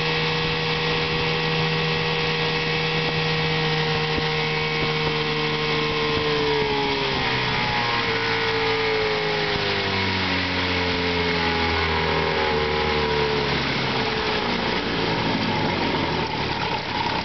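Chrysler-built 1974 Sea King 10 hp two-stroke outboard motor running steadily, then throttled back: its pitch falls gradually over several seconds to a slow, smooth idle.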